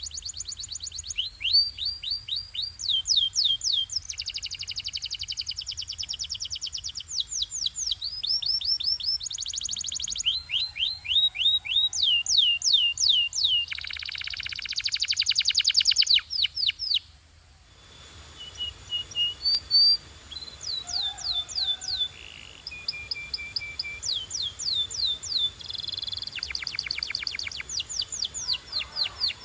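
Domestic canary singing: fast trills of repeated down-sweeping notes, one phrase after another, with a short break a little past halfway.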